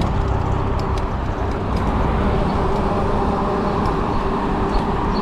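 Steady riding noise from an e-bike in motion: wind rumbling on the microphone with tyre and road noise, and a faint steady hum.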